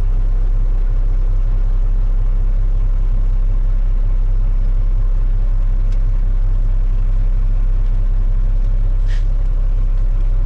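Semi-truck's diesel engine idling, a steady low drone heard from inside the cab, with a short hiss about nine seconds in.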